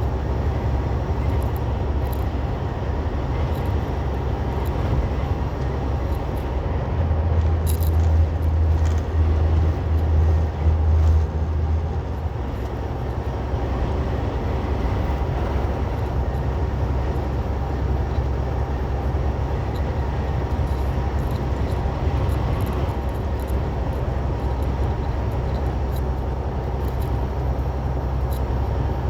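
Semi truck's diesel engine and road noise heard from inside the cab: a steady low rumble. About seven seconds in, a louder low throb pulses for around five seconds, then settles back.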